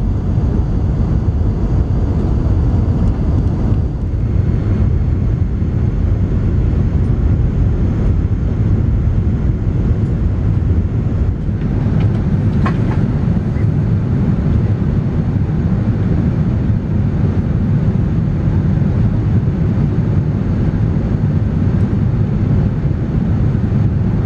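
Airbus A380 cabin noise: a steady low rumble of engines and airflow heard from inside the passenger cabin.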